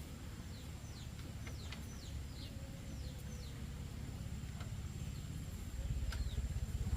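Birds calling outdoors with a quick series of short, downward-sliding chirps, over a constant low rumble that gets louder about six seconds in. A thin, steady high tone runs underneath.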